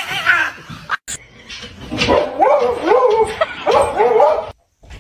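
A dog whining and howling in wavering, up-and-down cries for about two and a half seconds, cut off abruptly near the end.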